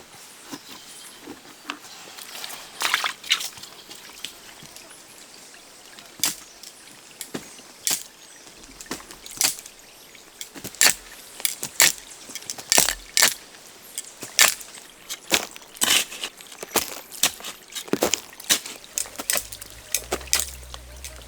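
A series of irregular sharp knocks and clicks, sparse at first and coming more often, about one or two a second, in the second half. A low rumble comes in near the end.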